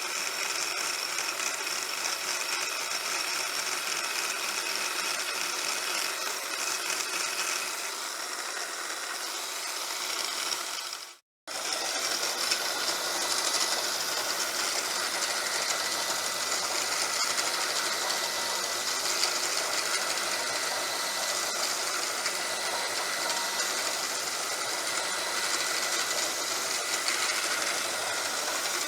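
Milling machine running with its cutter milling out a metal part: a steady mechanical whir with cutting chatter, cutting out completely for a moment about eleven seconds in.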